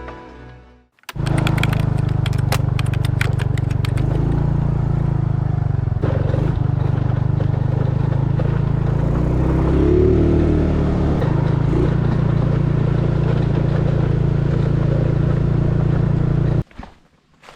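An engine running steadily, with a cluster of sharp clattering clicks in its first few seconds; it cuts off abruptly near the end.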